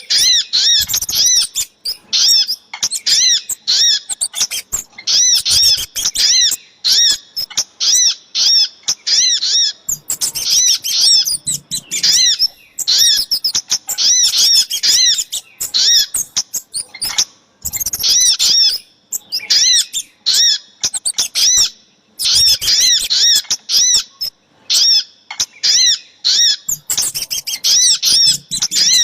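A bird-trapping lure recording of small songbird calls, the title's combination of little spiderhunter and kemade. It is a continuous run of sharp, high, arching call notes, about two a second, over faster twittering. The run breaks off briefly a few times.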